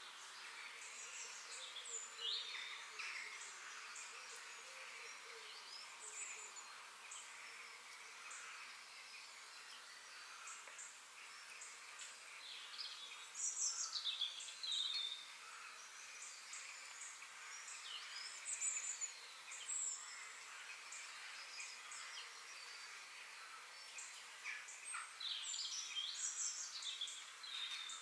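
Several forest birds singing and calling, overlapping short chirps and quick whistled phrases over a steady faint hiss, with louder bursts of song about halfway through and again near the end.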